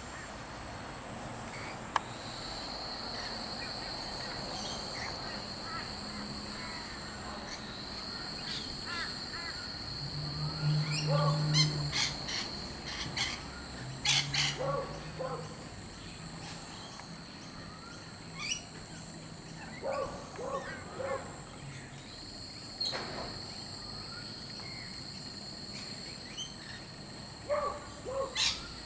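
Harsh bird calls in short clusters of a few calls each, over a steady high-pitched drone.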